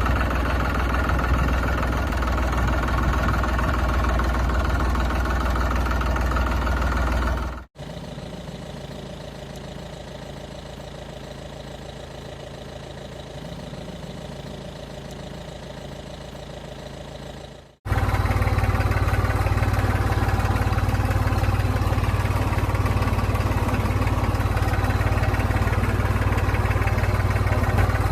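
Vehicle engines running steadily, in three clips joined by abrupt cuts, about 8 and 18 seconds in; the middle stretch is quieter.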